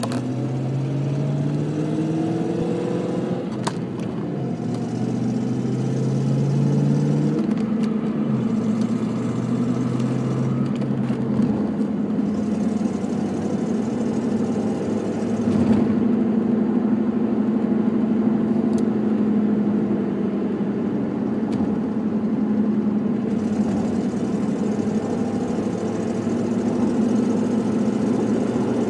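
Ford Mustang GT's 4.6-litre V8 accelerating through the gears, its pitch climbing and then dropping back at each upshift, with a tick/knock heard on acceleration, most of all right after a shift in 4th and 5th. The cause was an exhaust leak at the flange gasket joining the passenger-side header to the mid pipe.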